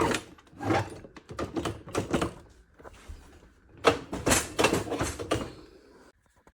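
Kitchen cabinetry being shut with repeated loud knocks and clattering bangs, in several bursts that stop about six seconds in. It is the noisy fault that the 3D-printed part is meant to cure.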